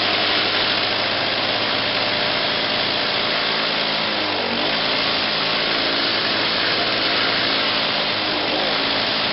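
2000 Lawn-Boy commercial walk-behind mower engine running steadily and loud, with a rattle the owner can't place; he suspects an exhaust leak for the loudness. Its speed sags briefly about halfway through and again near the end.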